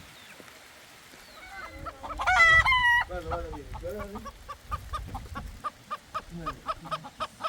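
A rooster crows once about two seconds in. Chickens then cluck in a quick, even run of short notes, about three or four a second, and another crow begins right at the end.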